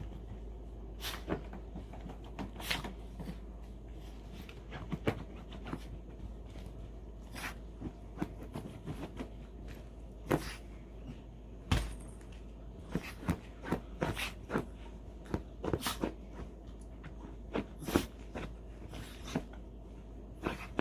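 A dog rubbing and rolling about to dry its freshly washed fur: irregular scuffs, knocks and thumps, several a second at times, over a steady low hum.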